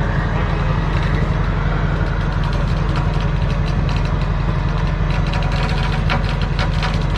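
An engine idling steadily close by, with scattered light clicks and ticks over it in the second half.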